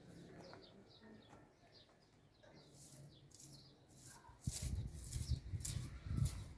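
Small birds chirping faintly in short repeated notes; about halfway through, irregular loud low thumps and rumbling with crackling noise come in and become the loudest sound.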